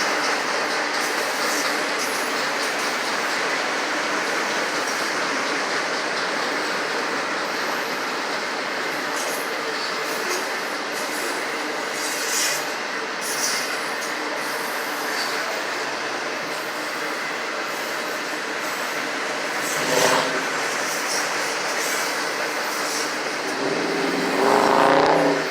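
Freight train of autorack cars rolling past: a steady rumble and rattle of steel wheels on the rails. There is a brief sharper clank about 20 seconds in, and a louder, harsher stretch with a ringing squeal near the end.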